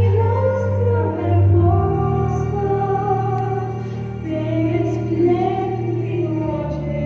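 A sung musical number: voices singing a melody over instrumental accompaniment with sustained bass notes.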